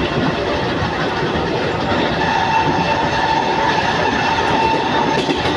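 Mumbai suburban electric local train running along the track: a steady loud rumble of wheels and carriages. About two seconds in, a steady high whine joins and holds.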